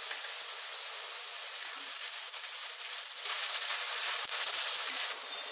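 Onion paste and sugar sizzling in hot mustard oil and ghee in a kadai while being stirred with a steel spatula. There are a few faint scrapes of the spatula, and the sizzle grows louder about three seconds in for nearly two seconds.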